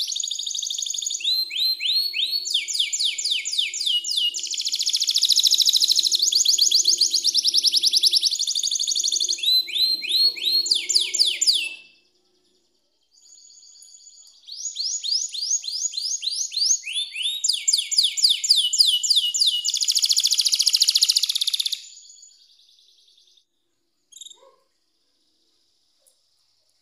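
Domestic canary singing: long rolling trills of rapidly repeated high notes, changing from one trill type to the next, in two long phrases with a short break about twelve seconds in. After about twenty-two seconds the song stops, leaving only a few faint chirps.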